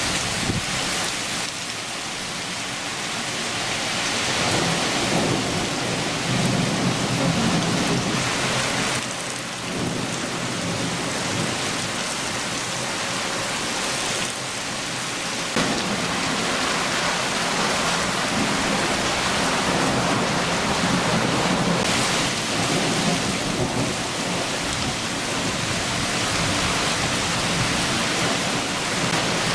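Heavy rain shower falling steadily, with low thunder rumbling under it in long rolls that swell a few seconds in and again through the second half.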